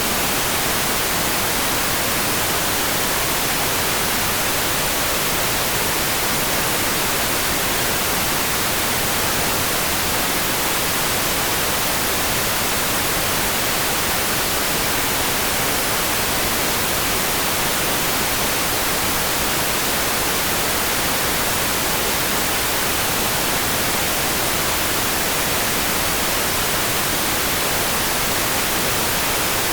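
Steady, even hiss of rain, with no separate drops, gusts or thunder standing out.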